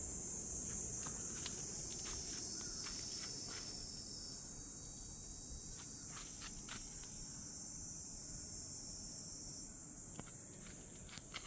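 Steady high-pitched insect chorus, with a few faint clicks over a low background rumble.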